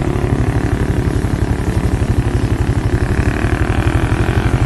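Motorcycle engine running steadily while riding, with a fast, even pulsing low note.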